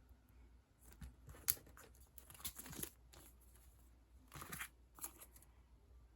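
Sticker sheets and their packaging being handled: faint rustling and crinkling in short spells, about a second in and again near four and a half seconds.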